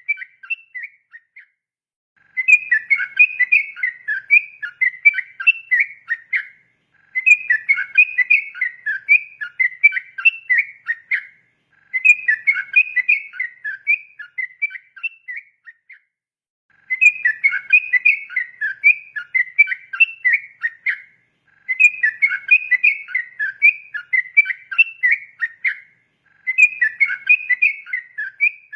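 Yellow-vented bulbul (trucukan) singing its long, rapid 'ropel' song: bursts of quick, bubbling whistled notes, each about four seconds long, repeated six times with short pauses between.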